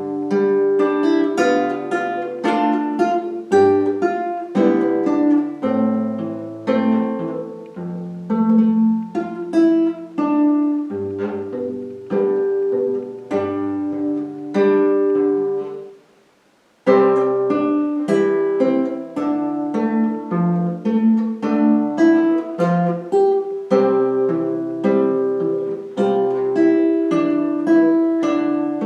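Solo acoustic guitar played fingerstyle: a plucked melody over bass notes. It breaks off briefly about two-thirds of the way through, then resumes.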